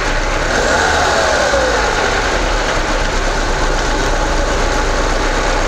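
Lada 4x4 Urban's 1.7-litre four-cylinder engine idling steadily with a noise from the timing chain, which the owner puts down to a failed hydraulic timing chain tensioner.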